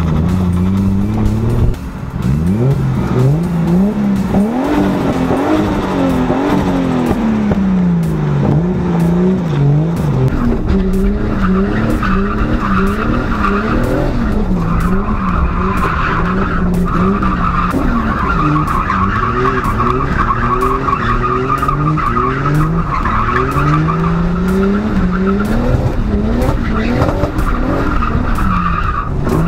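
Turbocharged BMW M50B25 straight-six revving up and down over and over while the car drifts, its pitch rising and falling every second or two, with tyres squealing on and off through the second half.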